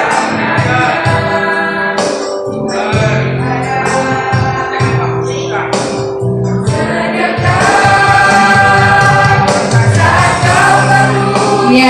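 Church youth choir of young men and women singing a gospel song, swelling louder about two-thirds of the way in.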